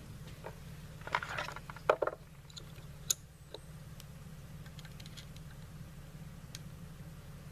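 Small metal rifle parts being handled: a short run of clicks and rattles about a second in, then a single sharp click, over a steady low hum.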